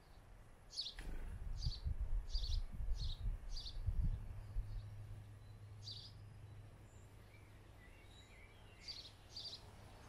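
A small garden bird chirping: short high call notes, a run of about six roughly half a second apart in the first few seconds, then a few scattered ones later. A low rumble runs under the first half, the loudest stretch.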